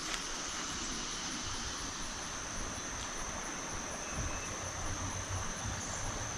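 Steady high-pitched insect drone over a continuous hiss.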